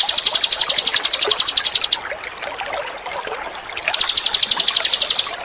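A songbird's rapid, even trill of high notes, about ten a second, broken off about two seconds in and resumed about two seconds later, over a steady trickle of running water.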